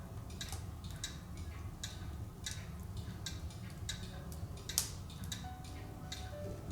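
Larch firewood burning in a wood stove, crackling with irregular sharp pops about twice a second and one louder snap nearly five seconds in, over a low steady rumble of the fire.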